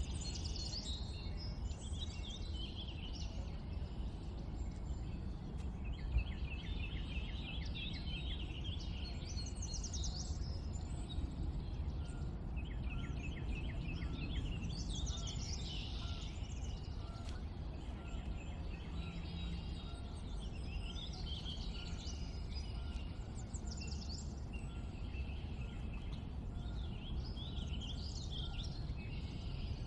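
Several wild birds chirping and singing, with rapid trills repeating every few seconds, over a steady low rumble.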